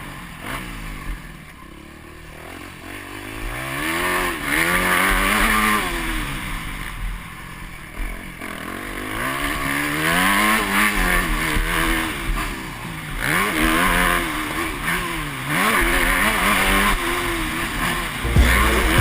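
Motocross bike engine revving up and down again and again, its pitch climbing and dropping several times as the rider works the throttle and gears around the track.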